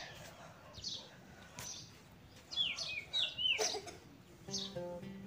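Birds chirping: short high chirps every second or so, with a quick run of down-swooping calls about halfway through. Background music with plucked notes starts near the end.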